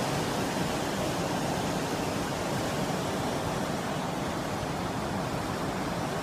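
Heavy rain pouring steadily in a summer thunderstorm, an even hiss with no pauses.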